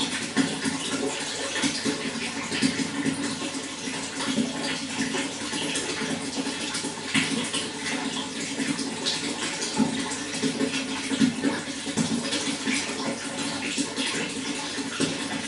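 Water running and splashing steadily, a continuous gurgling rush with many small splashes.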